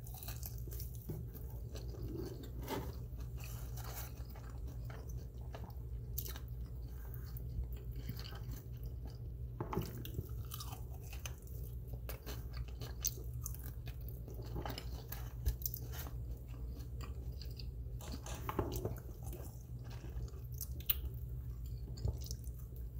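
A person biting and chewing chicken wings, with many scattered short clicks over a steady low hum.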